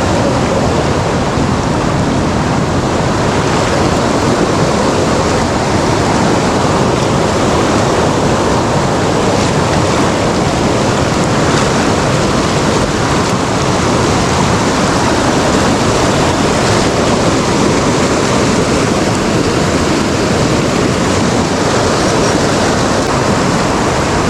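Loud, steady rush of a fast-flowing stream.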